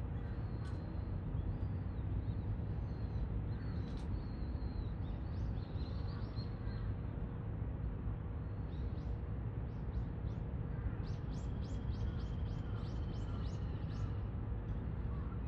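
A steady low rumble with scattered high-pitched small-bird chirps over it, and a quick run of about a dozen chirps near the end.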